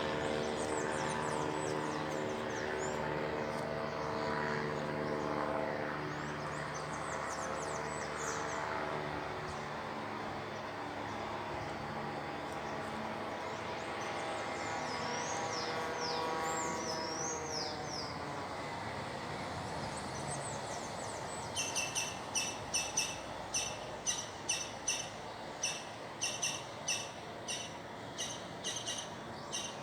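A steady engine drone with several held tones fades out about halfway through, while birds chirp in the background. In the last third a bird gives loud, sharp calls repeated about twice a second.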